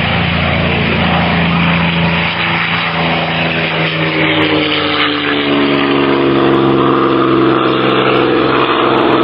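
P-51D Mustang's Packard Merlin V12 engine running, a steady, loud drone whose pitch rises slowly and grows slightly louder.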